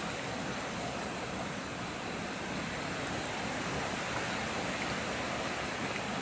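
Steady rushing of wind through forest trees, with no distinct events.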